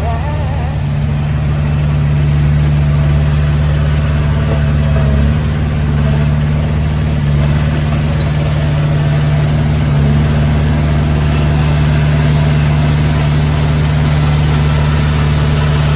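Heavy diesel engine of earthmoving machinery running steadily at an even speed, with small shifts in its tone about five and ten seconds in.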